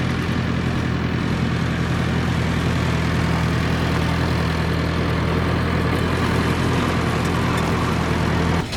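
Engine running at a steady idle, a low, even drone that cuts off sharply near the end.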